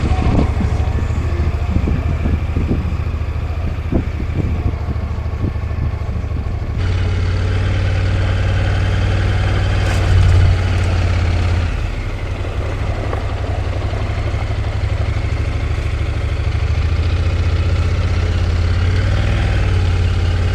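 Motorcycle engine running steadily under a haze of road and wind noise, with the sound shifting abruptly twice.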